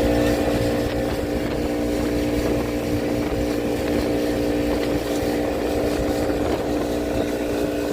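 Motorboat engine running at a steady speed, a constant droning hum with a low rumble underneath.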